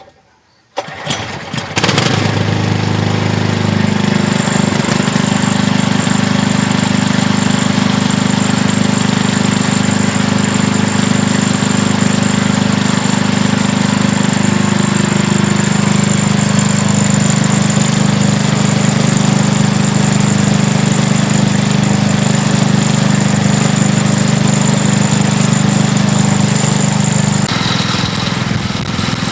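Small gasoline engine of a walk-behind power carrier starting about a second in and then running steadily, after its carburetor has been cleaned; the tone shifts slightly near the end.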